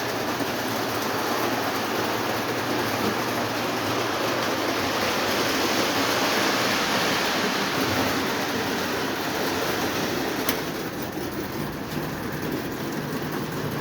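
Lionel O27 model steam trains running around the layout: a steady whir and rumble of their motors and wheels on the track, with one small click about ten and a half seconds in.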